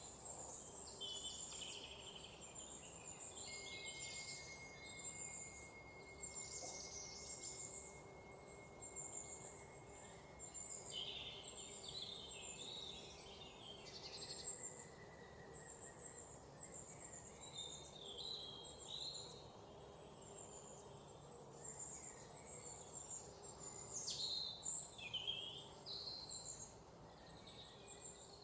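Many wild birds chirping and calling in short, overlapping high phrases over a steady low background hum. A thin, steady high tone holds for about ten seconds from a few seconds in, and the calls come thickest near the end.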